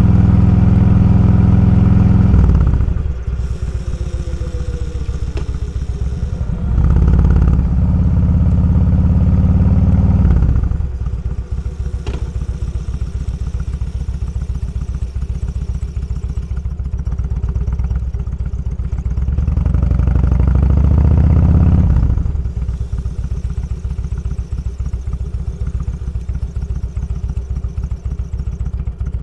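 Motorcycle engine heard from the rider's seat, pulling harder three times: at the start, around seven to ten seconds in, and again around twenty seconds in. Between these it drops back to a quieter, evenly pulsing run off the throttle.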